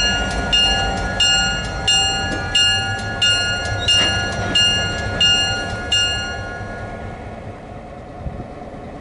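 Locomotive bell on a Southern Pacific GP9 diesel switcher ringing steadily, about one and a half strikes a second, over the low rumble of its diesel engine. The bell stops about six seconds in and the engine sound fades away.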